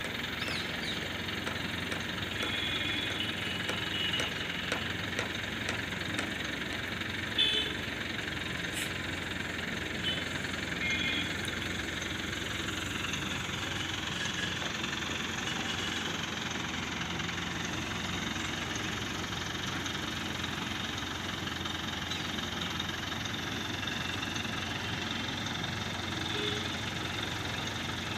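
Diesel engine of a JCB 3DX backhoe loader running steadily under work, with a single sharp knock about seven seconds in.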